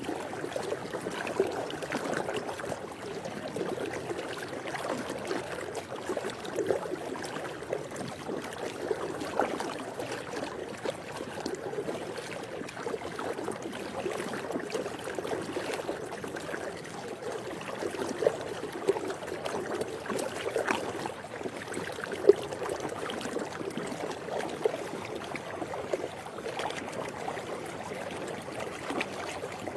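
Swimming-pool water lapping and gurgling steadily, with small irregular splashes.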